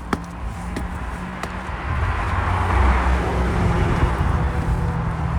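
A car driving past on the road, its engine and tyre noise swelling to its loudest about three seconds in and easing off, with a few light clicks near the start.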